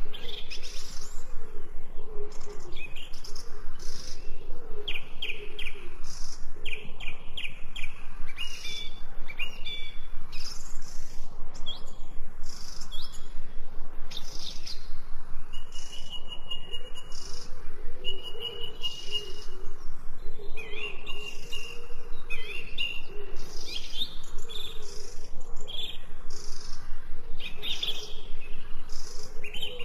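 Several wild birds chirping and singing, quick overlapping calls throughout, with a few longer steady whistled notes about halfway through.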